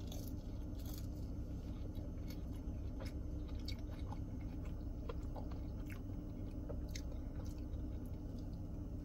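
A person chewing cheese fries, with scattered faint clicks over a steady low hum inside a car.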